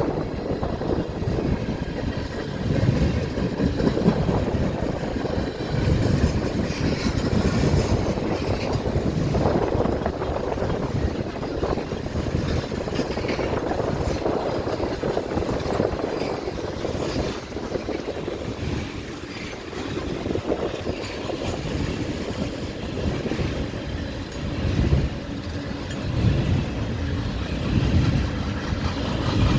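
Long freight train's cars, many of them tank cars, rolling steadily past: steel wheels on rail giving a continuous low clatter that swells and eases without a regular beat.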